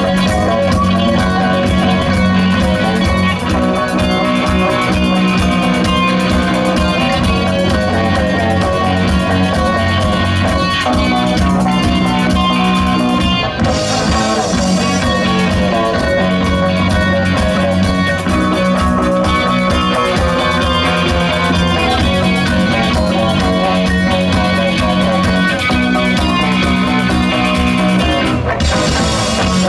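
Live rock band playing an instrumental passage: electric guitar, bass and drum kit at a steady beat, with cymbal washes about 14 seconds in and again near the end.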